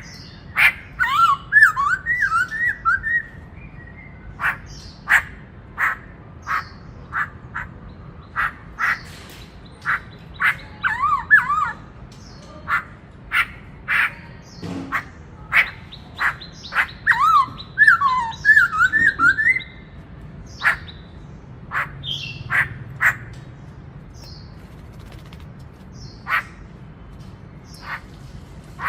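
Black-throated laughingthrush singing: sharp, clipped notes at irregular intervals, broken by quick warbling phrases that dart up and down near the start, around the middle and again later.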